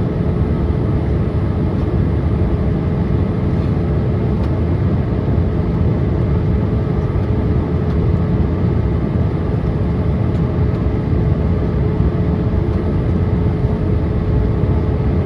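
Cabin noise inside a Boeing 787-8 Dreamliner during descent: a steady roar of engines and airflow with a constant hum running through it.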